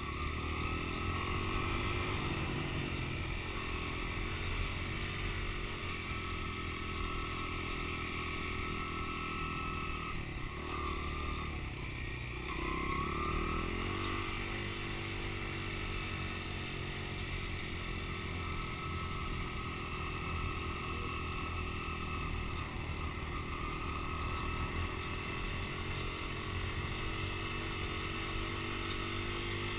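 Dirt bike engine running, its pitch rising and falling with the throttle; it drops away about ten to twelve seconds in, then revs back up.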